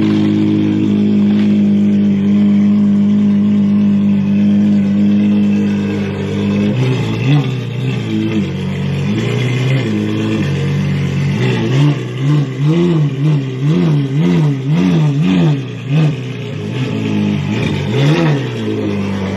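Ferrari 812 Superfast's V12 with a Novitec straight-pipe exhaust idling steadily. From about seven seconds in it revs up and down again and again in short blips as the car is manoeuvred out at low speed.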